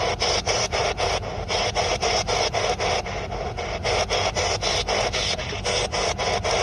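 Spirit box sweeping through radio frequencies: a loud hiss of static chopped into rapid, even bursts about five times a second.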